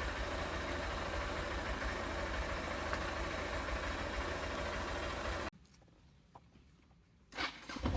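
Motorcycle engine idling steadily. About five and a half seconds in the sound cuts off abruptly to near silence, and a few short knocks follow near the end.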